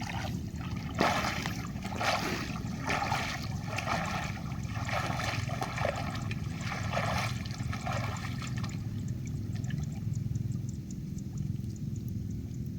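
Shallow creek water sloshing and splashing in a series of bursts about a second apart as a person wades and feels about in it by hand; the splashing stops about eight or nine seconds in.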